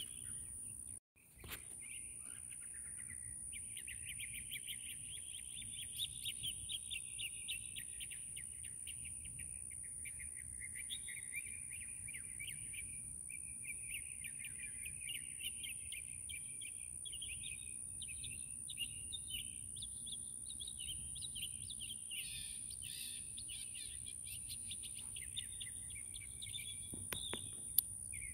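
Birds chirping continuously over a steady high-pitched whine. The sound cuts out for a moment about a second in.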